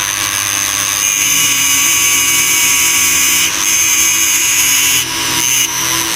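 Small power tool running steadily with a high whine; its tone shifts slightly about three and a half seconds in and again near five seconds.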